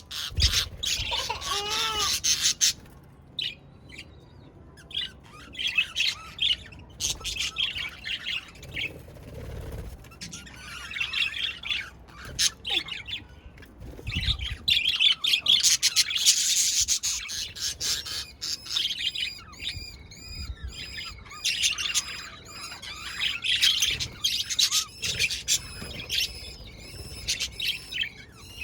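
Budgerigars chirping and warbling in rapid, busy bursts, with brief lulls between.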